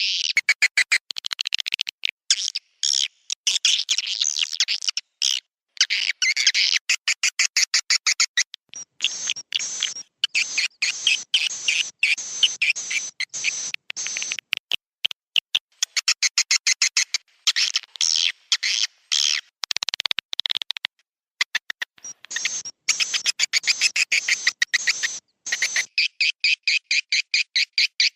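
Swiftlet roosting ('inap') lure call: dense, rapid trains of high twittering chirps from swiftlets, broken every few seconds by short, abrupt silences. This is the kind of recording played in swiftlet houses to coax the birds to roost and nest there.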